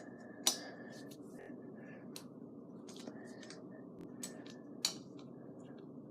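Scattered light clicks and taps of handling, with two sharper clicks about half a second in and near five seconds, over a steady low background hum.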